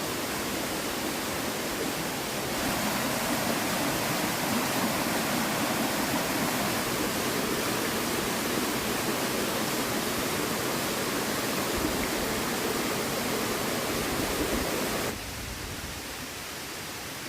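Steady rush of flowing river water. It gets louder about two and a half seconds in and drops to a quieter hiss near the end.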